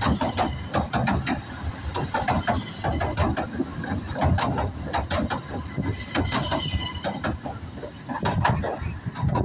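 Southend Pier Railway train running past close by, its wheels clicking and knocking irregularly over the rails, with a brief high squeal a little past six seconds in.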